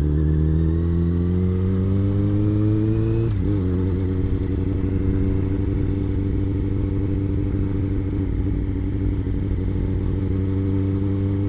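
Honda CBR600's inline-four engine under way: the engine note rises smoothly for about three seconds, dips briefly, then holds a steady pitch.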